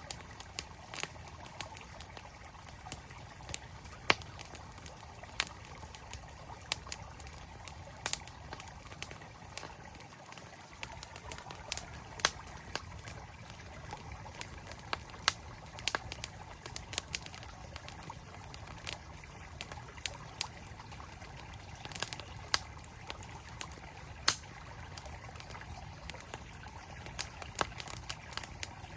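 Wood campfire crackling with frequent irregular sharp pops, over the steady flowing water of a mountain stream.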